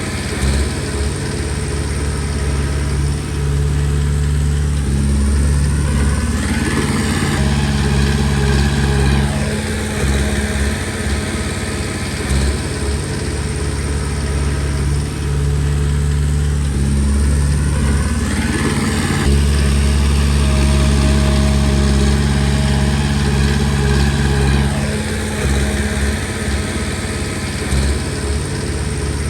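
Komatsu D20P small crawler bulldozer's diesel engine running under load, its pitch rising and falling as it works, with its steel tracks squealing and clanking.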